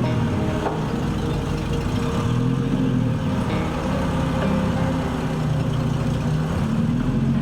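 A vehicle engine running steadily. Its pitch sags slightly in the middle and picks up again near the end.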